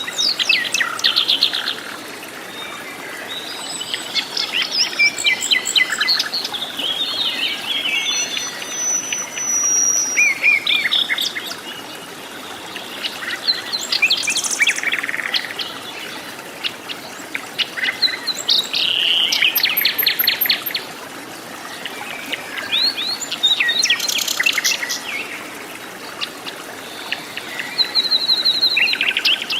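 Several forest birds singing and calling at once: overlapping chirps and quick trilled phrases that come in clusters every few seconds, over a steady background hiss.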